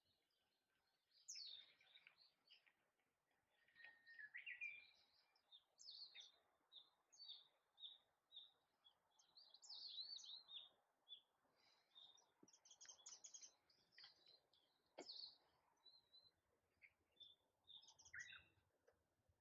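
Faint songbirds chirping and calling in a forest, many short high notes and trills from several birds, coming and going.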